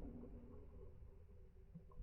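Near silence: a faint low hum, with the tail of a louder sound dying away at the start.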